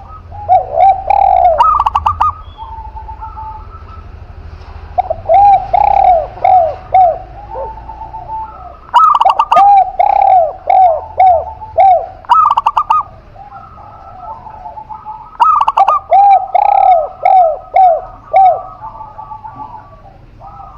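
Zebra dove and spotted dove cooing. There are four bouts of song, each a short burry trill followed by a quick run of rounded, repeated coo notes, with short pauses between the bouts.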